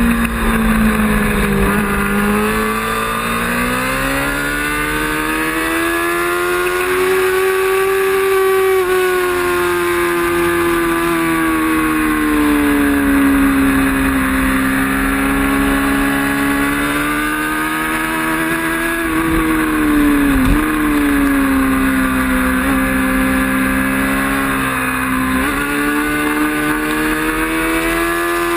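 Racing motorcycle engine running hard at high revs, its pitch rising and falling slowly over several seconds, with one brief sharp drop and recovery in pitch about twenty seconds in.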